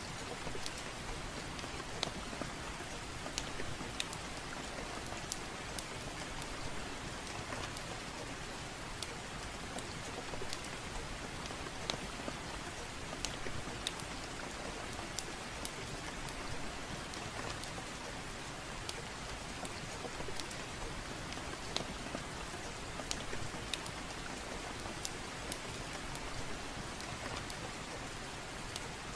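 Steady soft rain with a light, even hiss, dotted with irregular sharp crackles and pops from a wood fire in a fireplace.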